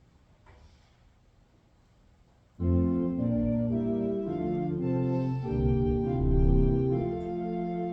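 Quiet room tone for the first two and a half seconds, then an organ starts playing held chords, the opening of a hymn tune.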